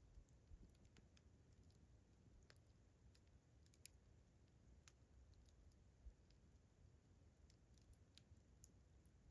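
Faint campfire crackling: irregular sharp pops and snaps of burning wood, sparse and quiet over a low rumble.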